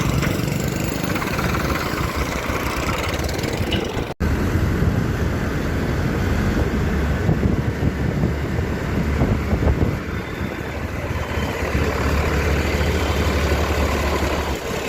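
Farmtrac 60 tractor's diesel engine running steadily, with an abrupt cut in the sound about four seconds in.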